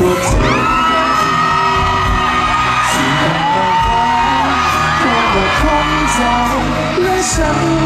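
Live Thai pop band playing with a steady drum beat, with long held high voices and whoops over the music.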